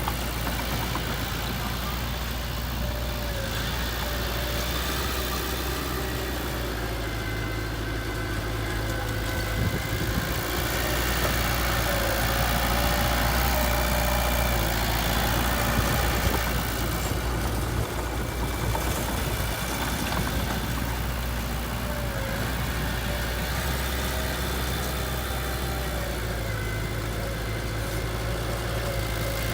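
Engine of heavy earthmoving machinery running steadily at low revs, a little louder partway through.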